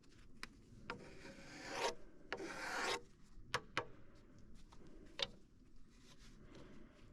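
Two scraping strokes of wood rubbing on wood, the first rising over nearly a second and the second shorter, followed by a few sharp clicks and light knocks.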